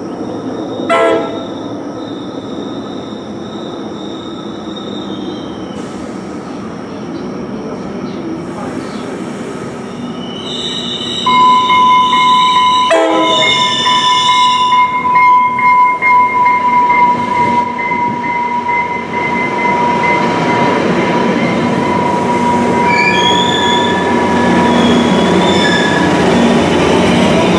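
Trinity Railway Express commuter train: two short horn blasts, about twelve seconds apart. About eleven seconds in, a long, steady, high-pitched wheel squeal starts and holds almost to the end, while the train's rumble grows louder.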